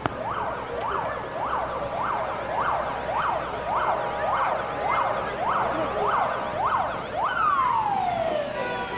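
Emergency vehicle siren sounding in fast rising-and-falling sweeps, about two a second, then winding down in one long falling tone near the end.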